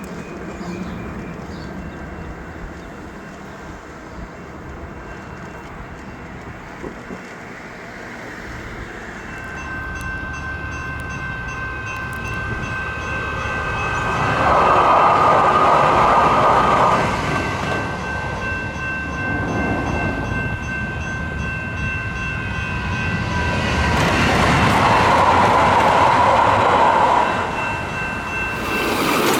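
Sacramento Regional Transit light rail train going by, growing louder from about ten seconds in, with two loud surges about fifteen and twenty-five seconds in.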